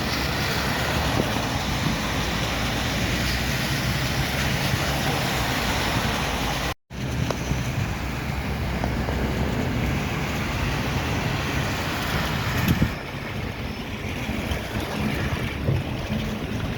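Steady traffic noise from passing vehicles, with wind on the microphone. The sound cuts out for an instant about seven seconds in and drops slightly just before thirteen seconds.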